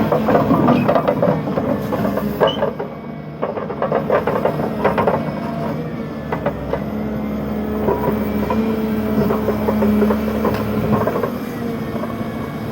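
Heavy machinery running with a steady engine hum, broken by many sharp cracks and knocks, most of them in the first half.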